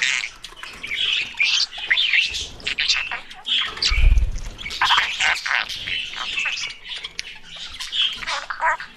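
Budgerigars (parakeets) chirping and squawking in a quick, continuous jumble of short calls.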